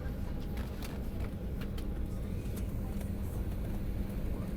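Cabin noise of a Boeing 737-700 taxiing after landing: a steady low rumble from the idling engines and the rolling airframe, with scattered light clicks and rattles.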